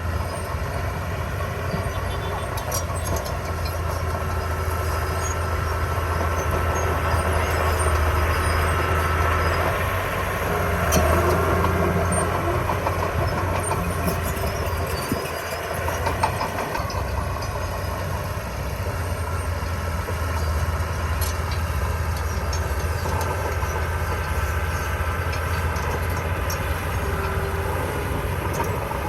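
Diesel engine of heavy construction equipment running steadily with a deep low drone, dipping briefly about halfway through.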